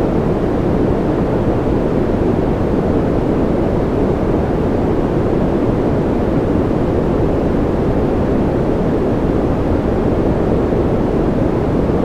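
Steady white-noise sleep track: an even, unchanging rushing hiss with most of its weight low and little brightness on top.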